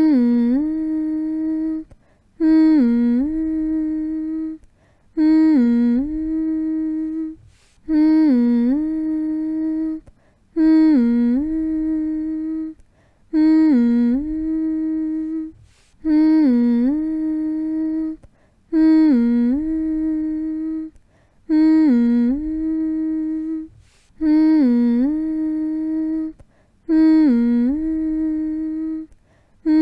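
A person humming the same steady note over and over, about eleven times. Each hum lasts about two seconds, opening with a short dip in pitch before it settles, with a brief pause between hums. It is a repetitive soothing hum made to settle a baby to sleep.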